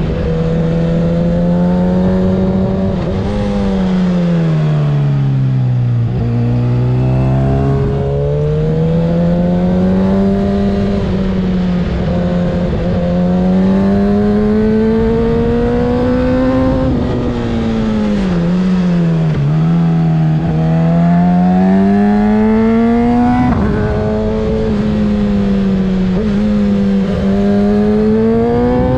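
2024 Kawasaki ZX-6R 636 inline-four with a Graves aftermarket exhaust, under way on a mountain road. The engine note climbs and falls again and again as the rider opens and closes the throttle, dropping lowest about six seconds in and again near twenty seconds.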